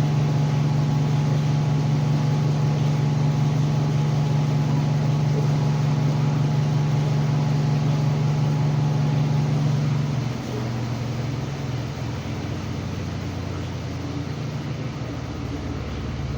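Samsung WA45T3200AW top-load impeller washer running with a steady motor hum. About ten seconds in, the hum drops in level and steps down in pitch as the drum slows.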